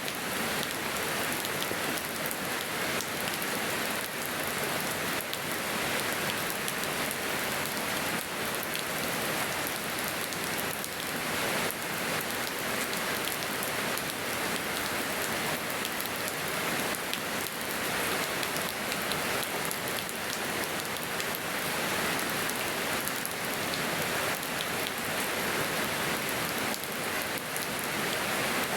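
Steady rain falling in a yard: an even, continuous hiss that holds the same level throughout.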